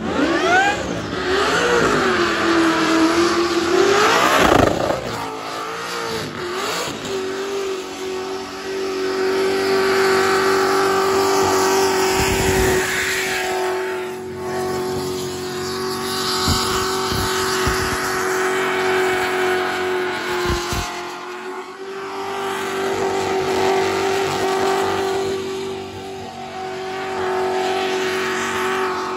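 Supercharged Holden Commodore engine doing a burnout: it revs up and down for the first few seconds, then is held at steady high revs with the rear tyres spinning, dipping briefly twice in the later part.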